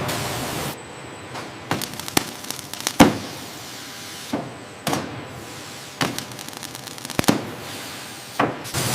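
A series of sharp knocks and clanks, about eight, irregularly spaced, several with a brief ring after them.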